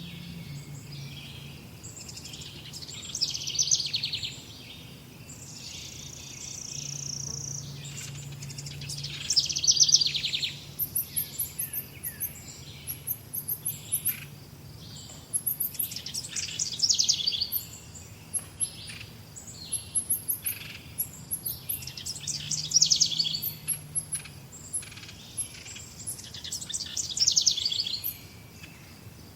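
Songbirds singing: one bird repeats a short, loud trilled song phrase about every six seconds, with high chips and twitters from other birds between the songs.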